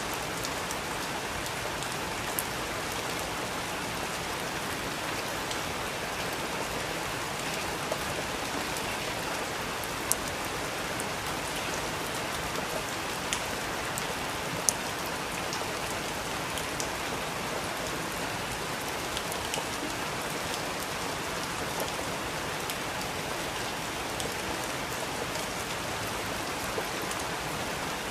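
Steady rain falling, an even hiss with scattered sharper drips landing close by.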